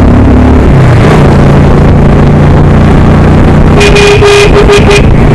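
Vehicle engine running steadily on the road, loud and close to the microphone. About four seconds in, a steady held tone sounds for about a second.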